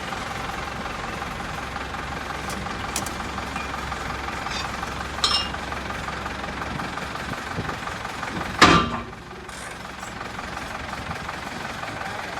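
Diesel engine idling steadily, with a few light clicks and one loud bang about two-thirds of the way through, after which the engine sound is quieter.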